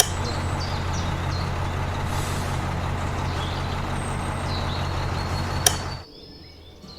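A small electric motor running steadily with a low hum, then a sharp click and the motor stops about six seconds in.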